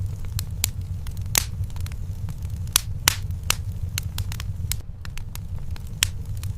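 Wood fire burning in a fireplace: irregular sharp crackles and pops over a steady low rumble, with a few louder pops about three seconds in and near the end.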